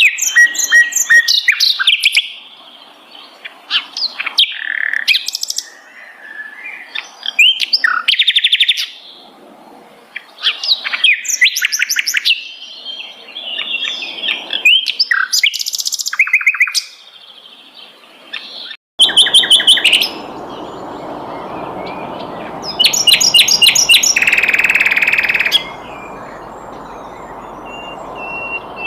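Sikatan londo (a flycatcher) singing a varied song of sharp chirps, trills and fast runs of repeated notes. About two-thirds of the way through, a sudden break gives way to a steady hiss under the song. Near the end a single steady high whistled note holds.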